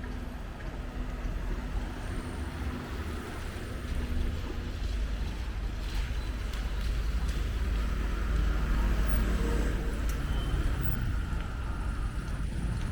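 Street traffic: a low engine and tyre rumble from passing vehicles, growing louder from about four seconds in.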